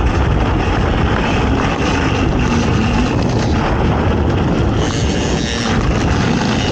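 Racing ATV engine running hard under steady load, with wind rushing over the microphone.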